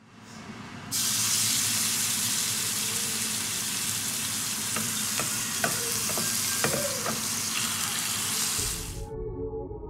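Seasoned chicken breast frying in oil on a hot black griddle: a loud, steady sizzle that cuts in about a second in, with a few light ticks midway. The sizzle stops suddenly near the end and soft ambient music comes in.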